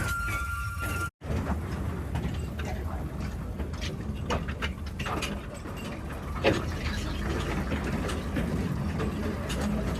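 Narrow-gauge gasoline locomotive pulling trolley cars: a steady low engine rumble with rattling and clicking from the cars running on the rails. The sound drops out for a moment about a second in.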